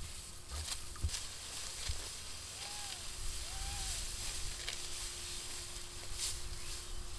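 Dry wheat stalks rustling and crackling as they are cut and gathered by hand in the field, with a low wind rumble on the microphone. Two short high calls sound about three and four seconds in.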